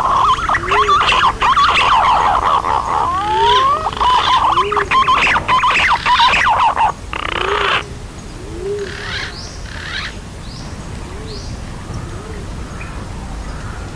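A flock of green pigeons (punai) whistling: many rising whistled notes overlap densely, with lower hooked notes about once a second. A short rushing noise comes about halfway through, and after it the calls thin out to a few scattered notes.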